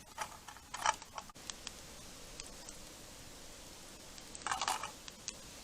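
Cookware being handled while cooking over a campfire: a few sharp clicks in the first second and a short clatter of metal about four and a half seconds in, over a faint steady hiss.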